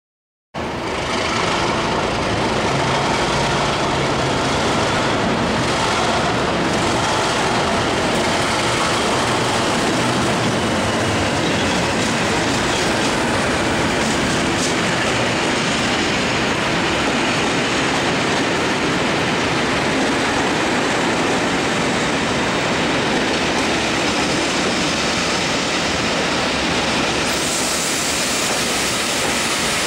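A train hauled by two Class 37 diesel locomotives arriving at a station, a loud steady rumble of engines and wheels on rail as the coaches roll slowly past. A thin high squeal comes in near the end.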